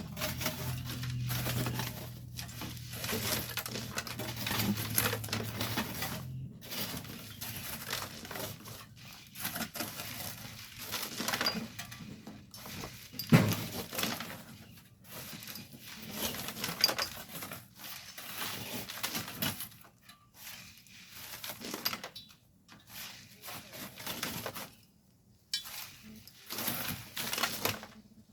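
Hand tools scraping and striking volcanic sand and stones: irregular clinks, knocks and scrapes, with one sharp knock about halfway through.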